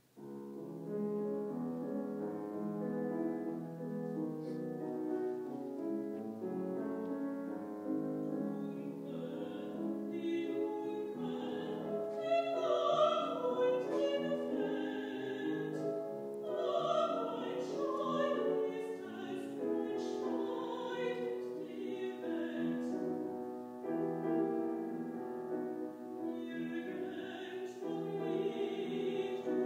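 Classical art song: a piano starts playing out of silence, and about nine seconds in a woman's trained classical voice enters, singing with vibrato over the piano accompaniment.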